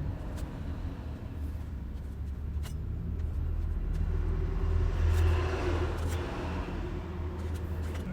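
Motor vehicle rumble, swelling to its loudest a little past the middle and then easing off, with a few faint ticks.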